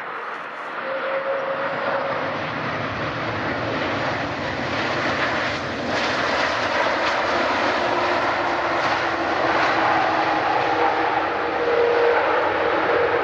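Jet airliner engines, a broad rushing roar that grows steadily louder as the aircraft approaches, with faint whining tones over it, one slowly dropping in pitch.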